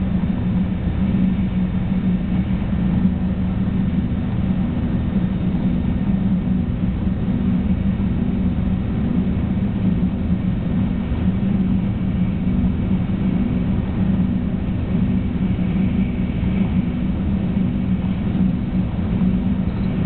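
Steady running noise heard inside a 300 series Shinkansen car travelling at speed: a continuous low rumble with a faint high whine over it, unchanging throughout.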